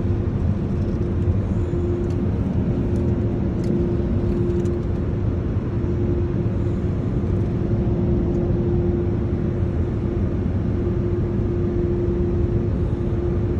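Automatic car wash machinery running around the car, heard from inside the cabin: a steady rushing noise with a constant hum beneath it.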